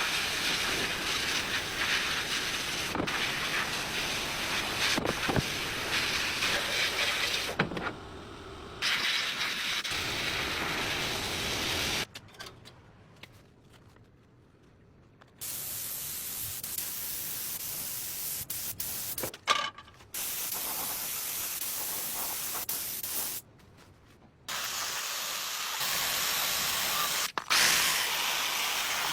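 Steady spraying hiss in several separate stretches, each starting and stopping abruptly, with short quiet gaps between them.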